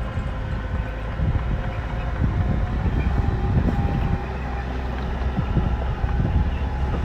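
Bulldozer's diesel engine running: a steady low rumble with a few knocks.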